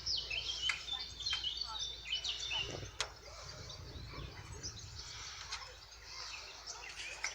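Small birds chirping and twittering, busiest in the first three seconds and thinning out after. A steady low rumble lies underneath, with one sharp click about three seconds in.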